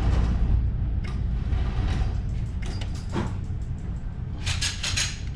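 Scattered clicks and rattles of objects being handled over a steady low rumble, with a quick run of sharper clicks near the end.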